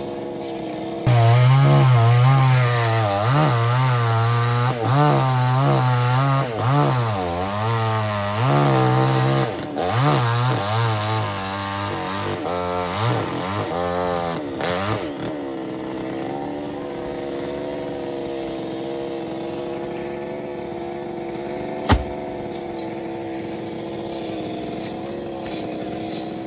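Chainsaw run hard in a cut through coconut palm wood, its engine pitch rising and falling repeatedly under load for about fourteen seconds. It then drops back to a steady idle, with a single sharp click near the end.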